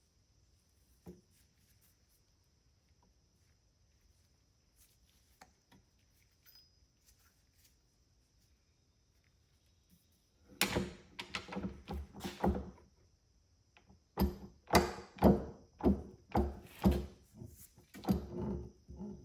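Workshop knocks and clunks of metal parts and tooling being handled at a press while setting up to press out connecting rod wrist pin bushings. Faint clicks for about ten seconds, then a run of loud knocks and, after a short pause, a louder run of about two knocks a second.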